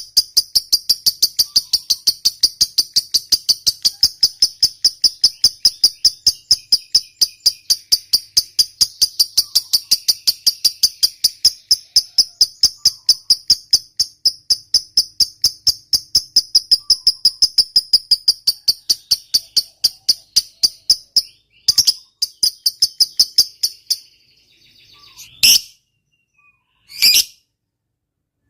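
A lovebird giving a long 'ngekek' chatter: a fast, even string of high-pitched chirps, about four or five a second, kept up unbroken for some twenty seconds. It breaks off, resumes for about two seconds, then ends in a few separate single calls. This long trill is the sound prized in fighter lovebirds and played to provoke other lovebirds into calling.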